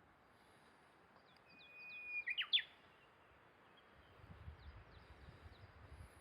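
A bird singing one phrase about two seconds in: a long held whistle, then a quick run of sharp falling notes. Fainter bird calls sound around it, and a soft low rumble comes in over the second half.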